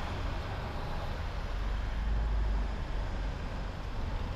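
Road noise of a car driving: a steady rush of tyres and wind over a low rumble, which swells briefly about two seconds in.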